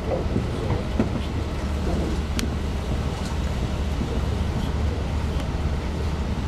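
Steady low rumble of a moving Talgo passenger coach heard from inside the carriage, with a few sharp clicks.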